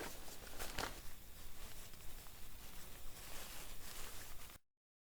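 Rustling and handling noise with a few sharp knocks in the first second, cut off abruptly to dead silence near the end.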